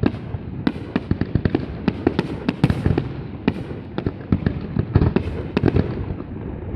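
Aerial fireworks display going off: a dense, irregular run of sharp bangs and crackles over a low rumble, many shells bursting in quick succession.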